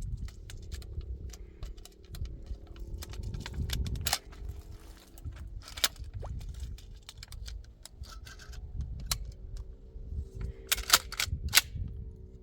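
Irregular clicks and snaps of dry twigs and brush being handled, with a few sharper cracks about four, six and eleven seconds in. A faint steady hum runs underneath.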